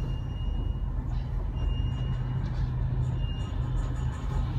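Steady low hum and rumble of the aerial tram cabin riding down its cables, with a faint high whine that comes and goes a few times.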